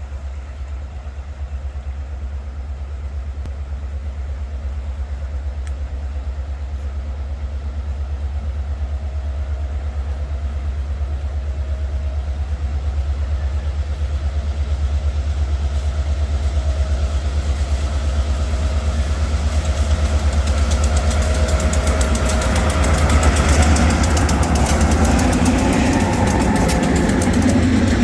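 Diesel locomotive of a freight train approaching: a low, steady engine rumble that grows gradually louder, joined by rising higher-pitched noise from about twenty seconds in as the train draws near.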